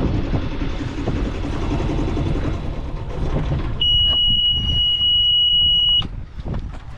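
A sailboat's auxiliary engine running and then being shut down. A loud, steady, high-pitched alarm buzzer from the engine panel sounds for about two seconds as it stops, then cuts off suddenly, leaving quieter wind and water.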